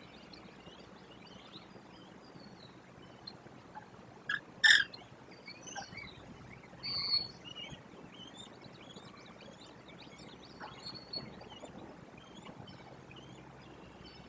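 Outdoor bird chorus: many faint, short chirps and calls from small birds. One loud, sharp sound comes about four and a half seconds in, and brief high calls come near seven and eleven seconds.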